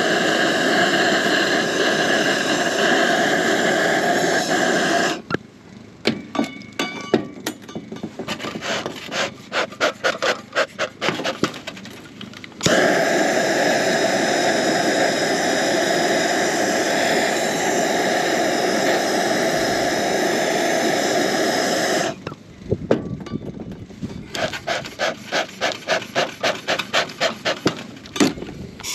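Propane torch hissing steadily while lighting a bee smoker. It stops about five seconds in and runs again from about 13 to 22 seconds. In the two gaps come runs of quick rustling, scraping strokes.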